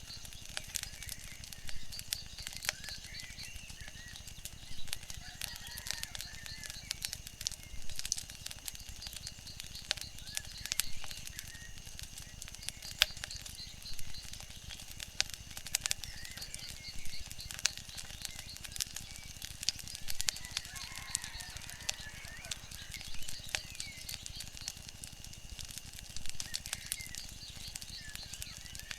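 Wood fire crackling, with irregular sharp pops over a steady low rumble. Faint bird chirps come and go in the background.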